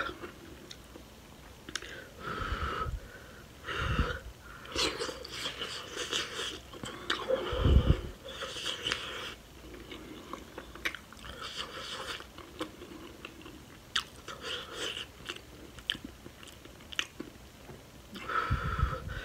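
Close-miked chewing and biting of seafood boil in a thick sauce: wet, crunchy mouth sounds with many sharp clicks and a low thump about eight seconds in.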